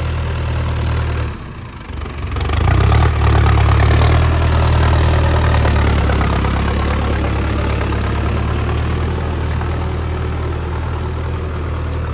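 Mahindra Arjun Novo 605 DI tractor's diesel engine running steadily at about 1500 RPM while it pulls a rotavator through deep mud. The sound dips briefly about a second and a half in, then comes back louder and holds steady.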